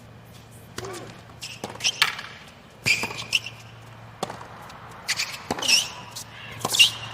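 A tennis rally on a hard court: sharp strikes of the ball off the rackets and its bounces, with sneakers squeaking as the players change direction.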